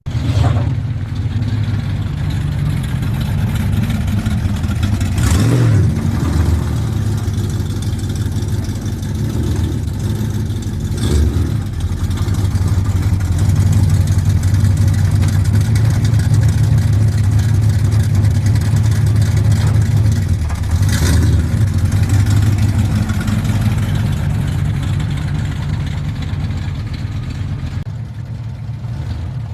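A 1996 Chevrolet Impala SS's V8 engine running steadily at idle, with a few short louder moments.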